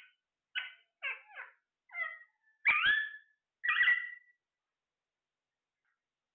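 Parrot calling: a run of short squawks, then two louder, longer calls about three and four seconds in.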